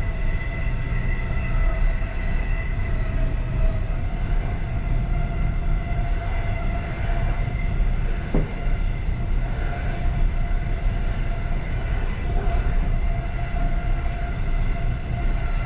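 Passenger train running along the track, heard from inside its last carriage: a steady rumble of wheels on rail with a faint steady whine, and one brief knock about halfway through.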